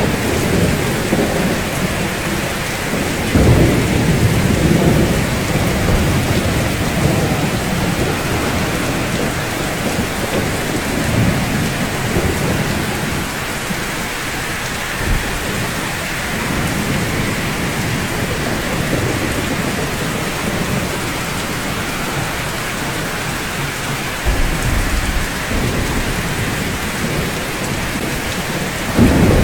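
Steady rainfall with distant thunder rumbling low several times, the loudest swells coming a few seconds in and again near the end.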